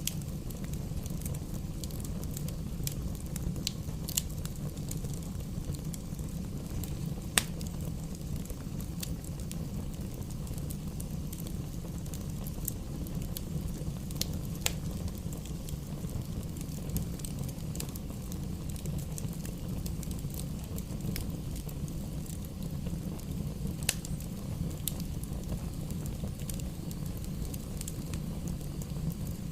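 Campfire burning: irregular sharp crackles and pops over a steady low rush, with a few louder pops now and then.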